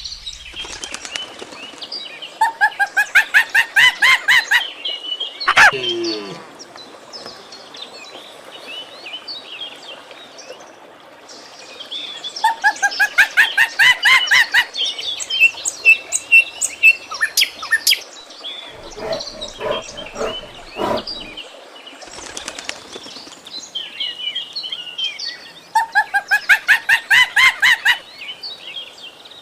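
Bird song: a rapid trill of quick repeated notes lasting about two seconds, heard three times roughly ten seconds apart, with scattered chirps and a single falling call between the trills.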